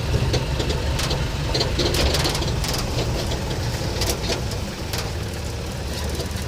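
Safari vehicle's engine idling steadily with a low rumble, with scattered short clicks and crackles over it.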